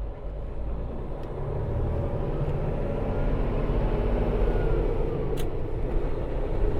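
Semi truck's diesel engine running with road rumble, heard from inside the cab, getting a little louder about two seconds in. A single click near the end.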